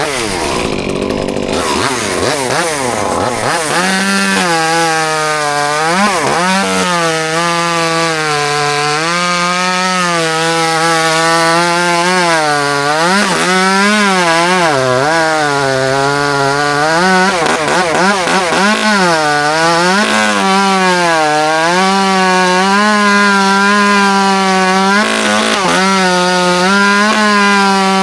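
Two-stroke chainsaw revved up in the first few seconds, then run at full throttle, its pitch dipping again and again as the chain bites into hackberry wood.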